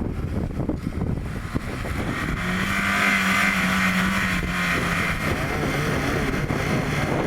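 Off-road vehicle's engine revving hard under load: it grows louder about two seconds in, holds a high steady note, then eases slightly lower.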